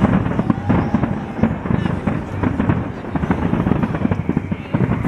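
Fireworks display: aerial shells bursting in a rapid, unbroken string of bangs and crackles.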